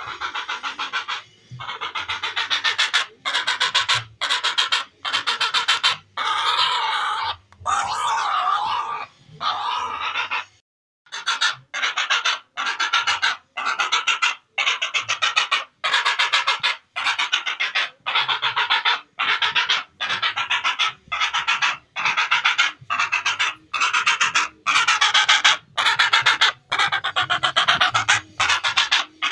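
Heron calling: a long, unbroken run of harsh, raspy calls, each under a second, repeated about once a second with brief gaps.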